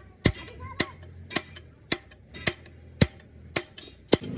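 Hammer striking metal in a steady rhythm, about two blows a second, eight blows in all, some leaving a brief metallic ring.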